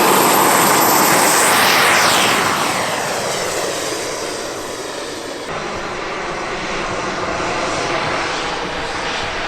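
Radio-controlled model aircraft flying past, loud at first with a falling sweep in pitch about two seconds in as it passes, then fading as it moves away.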